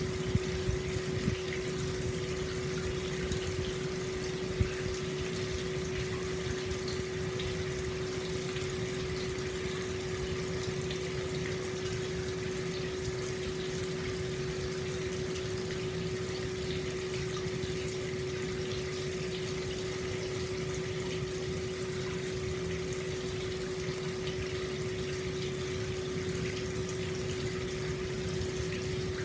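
Hot-spring water flowing steadily into an open-air bath, with a steady low hum under the splashing and a few brief louder splashes in the first seconds.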